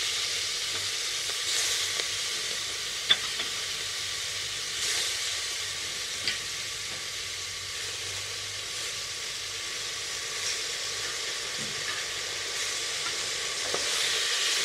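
Chopped vegetables (tomato, cauliflower and greens) sizzling in hot ghee with crackled cumin and spice powder: a steady frying hiss, with a few short clicks about three and six seconds in.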